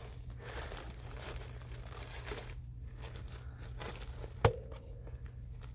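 Crinkling and rustling of an insulated flexible duct's plastic jacket as it is tucked in by hand. About four and a half seconds in comes a single sharp knock with a brief ring.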